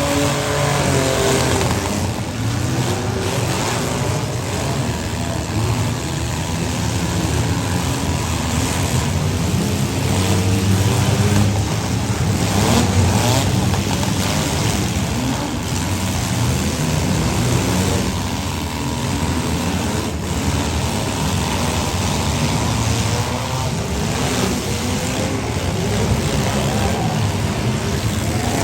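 Engines of several compact demolition derby cars running and revving, their pitch rising and falling, with a few thumps from the cars.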